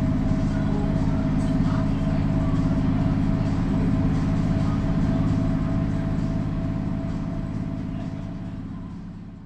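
Mercedes-Benz O405 city bus diesel engine running at a steady, unchanging speed, heard from on board, fading out over the last few seconds.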